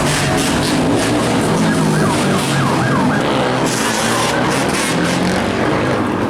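Motorcycle engines running and revving in a crowd of bikes, with a siren yelping in quick rising-and-falling sweeps from about two seconds in for roughly a second and a half.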